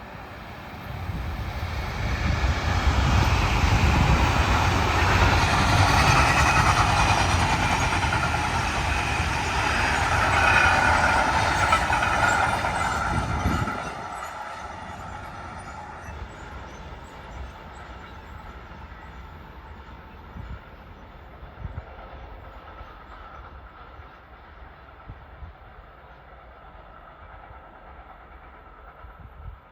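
A train passing close by, loud for about the first fourteen seconds, then dropping off suddenly and fading away as it recedes.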